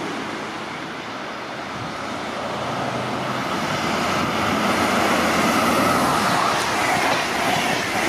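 A train running on the rails, getting louder over the first half and then staying loud, with a faint thin whine in the second half.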